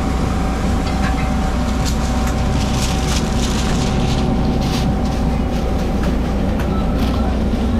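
Steady low rumble of a vehicle in motion, with a thin steady whine and scattered rattles and clicks.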